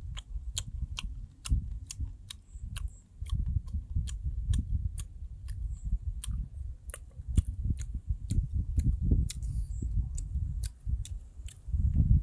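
A person chewing food noisily up close, with many irregular wet smacking clicks over a low, uneven jaw-and-mouth rumble.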